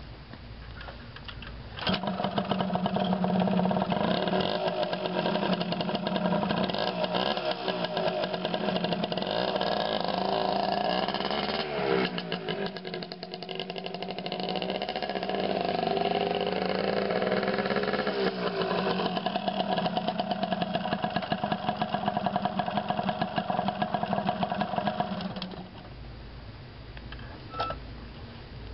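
Yamaha DT175 two-stroke single-cylinder motorcycle engine catching about two seconds in, then running and being revved up and down before settling to a steady run and cutting off a few seconds before the end. The bike was freshly restored, with its gummed-up carburettor cleaned, and it runs well.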